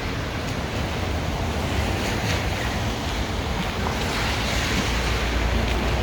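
Wind buffeting the microphone in a snowstorm: a steady rushing noise with a deep rumble that grows heavier near the end.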